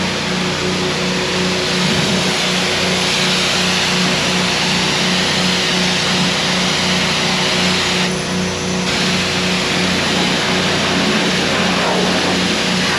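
Pressure-washer wand spraying water onto the side of a truck camper: a steady loud hiss over a low, evenly pulsing hum. The spray drops off briefly about eight seconds in.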